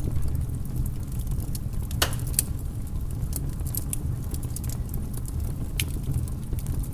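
Wood fire crackling: irregular sharp pops and snaps, the loudest about two seconds in, over a steady low rumble.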